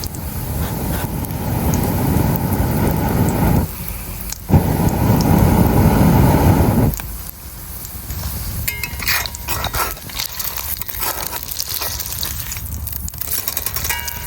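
A loud low rushing noise for about seven seconds, broken by a short pause at about four seconds, then crackling and sizzling from the campfire cooking with scattered small pops.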